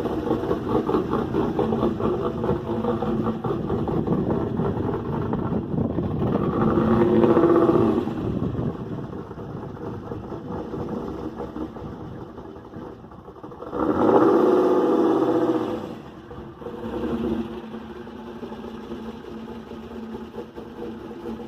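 LS1 V8 of a 2001 Camaro SS, with newly fitted cylinder heads and camshaft, running after a cold start and revved up twice, once about a third of the way in and again past halfway.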